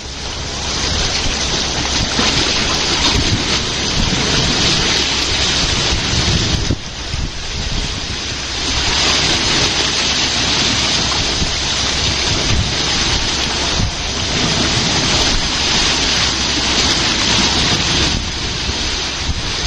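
Strong wind buffeting the microphone over the rush of water in a lock chamber, coming in gusts that ease briefly about seven and eighteen seconds in.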